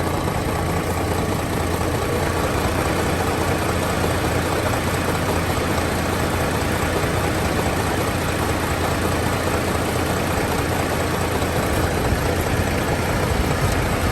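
Isuzu 6UZ1 diesel engine idling steadily. There is no smoke or oil spitting at its oil filler or dipstick, a sign of little blow-by.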